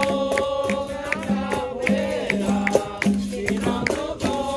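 Capoeira roda music: voices singing held notes over a berimbau with its caxixi rattle and a pandeiro's jingles, in a steady repeating rhythm.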